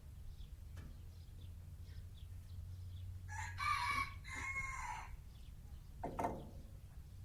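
A rooster crowing once in the background, about three seconds in, in two drawn-out parts with a short break. A brief dull knock follows about six seconds in, over a low steady hum.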